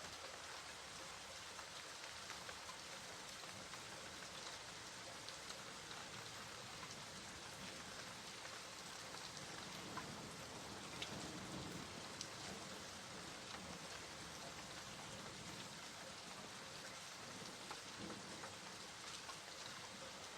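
Steady rain falling on a surface, an even hiss with scattered individual drops ticking through it. A low rumble swells briefly around the middle.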